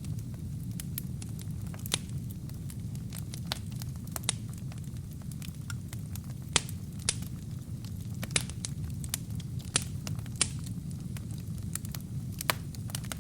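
Wood fire burning in a fireplace: a steady low rumble of flames with irregular sharp pops and crackles from the burning logs, a few of them louder than the rest.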